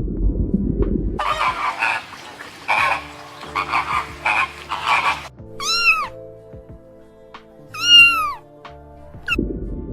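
A cat meowing twice, each meow rising then falling in pitch, with a short third call near the end, over soft background music. Before the meows comes a run of raspy, noisy calls.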